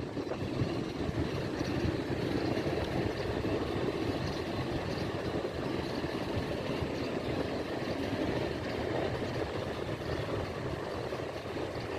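Steady jet engine rumble from airliners, an even noise that holds without rising or falling.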